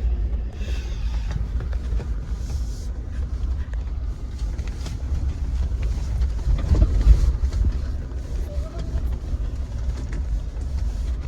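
Jeep driving over a rough dirt trail: a steady low rumble of engine and tyres with scattered small knocks and rattles, swelling louder about seven seconds in.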